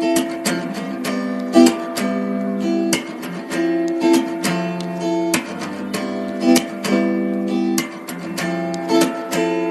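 Background music of an acoustic guitar strumming chords, with sharp strums recurring through a steady chord progression.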